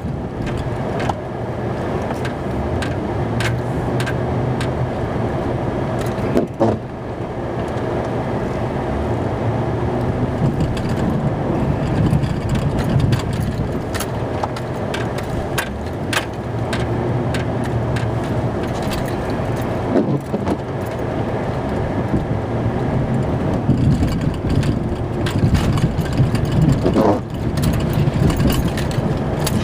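Snowplow truck's engine running steadily, with frequent short clicks and rattles and a few louder knocks.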